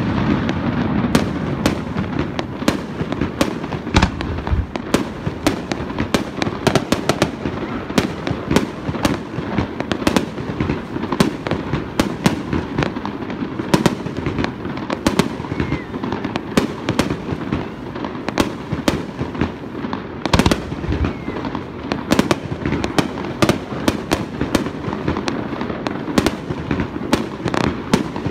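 Fireworks display: a rapid, continuous string of aerial shell bursts and crackles, several a second, over a steady low rumble.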